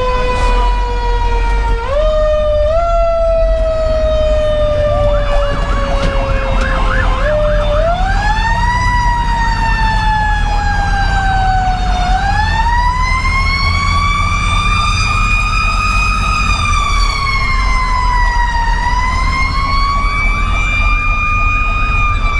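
Federal Q2B mechanical siren on a fire engine. It is wound up in short bursts, each followed by a slow coast down in pitch, then rises and falls in long slow sweeps. Underneath runs the steady low rumble of the truck's Detroit Series 60 diesel.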